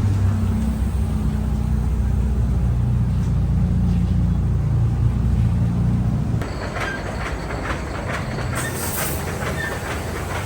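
Automatic car wash machinery running over the car. A steady low mechanical hum changes about six and a half seconds in to a busier hiss with many quick knocks as the wash equipment works on the body.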